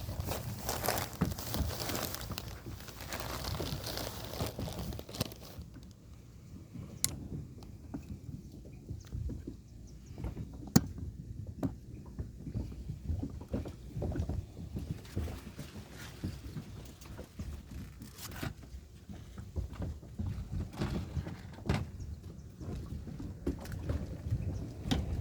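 Strong wind buffeting the microphone, a steady low rumble, with a rushing hiss for the first five seconds or so and scattered sharp knocks and clicks from a kayak and its gear.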